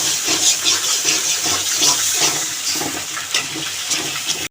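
Hot oil sizzling in a pan as a spice masala for beef curry is fried and stirred, a steady crackling hiss with the spoon scraping the pan now and then. It cuts off suddenly at the end.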